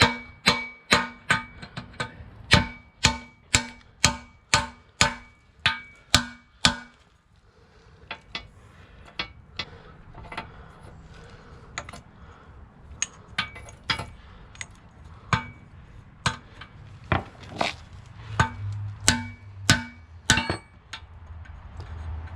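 Hammer blows on metal, about two a second with a ringing tone, driving a freezer-chilled bushing into a heated pin bore, where it goes in easily. After a lull about seven seconds in, lighter, irregular taps follow.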